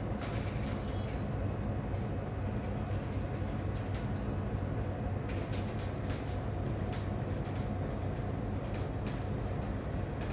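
A vessel's diesel engine running steadily: an even low drone, with scattered light ticks and rattles over it.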